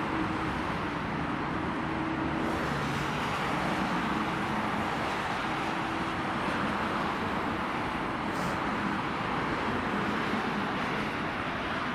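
Steady motorway traffic noise: an even rush of tyres and engines, with a faint low engine hum that comes and goes.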